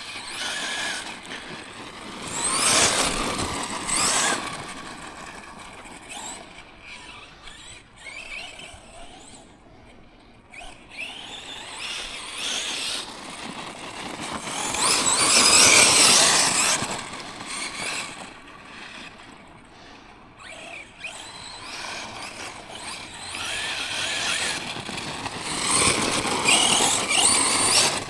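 Tekno MT410 2.0 1/10-scale electric RC monster truck driving over rough ground, its motor whining up in bursts of throttle along with tyre and ground noise. There are three loud surges, the loudest about halfway through.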